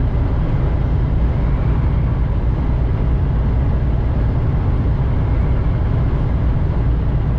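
Steady road noise inside a semi-truck's cab while it drives at speed: a low, even drone of engine and tyres with a wash of noise over it, no changes.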